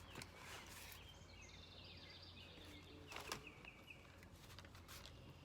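Near silence: faint outdoor background noise with a steady low hum and a few faint, high bird chirps in the middle, and one soft click a little over three seconds in.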